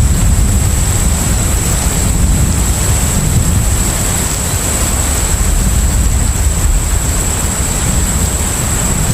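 Container ship at sea: a steady deep rumble under a constant wash of sea and wind noise, with a thin, steady high whine over it.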